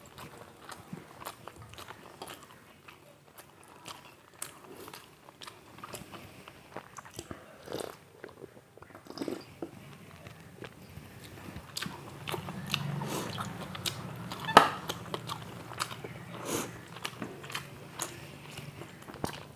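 Close-up eating sounds: chewing and biting, with crunching and many small sharp mouth clicks, the sharpest about fourteen and a half seconds in. A low steady hum joins about twelve seconds in.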